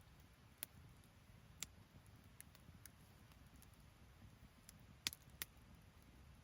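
Wood campfire crackling quietly: a few sparse, sharp pops from the burning wood, the loudest two close together about five seconds in, over a faint low rumble.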